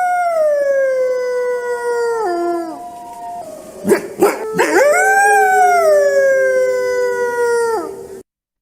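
Wolf howling: two long howls, each sliding up and then slowly falling in pitch, the recording cutting off suddenly near the end.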